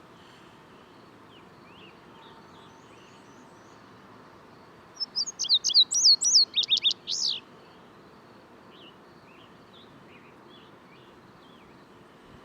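A bird singing one loud, fast phrase of high notes lasting about two seconds, about five seconds in, with faint distant bird calls around it.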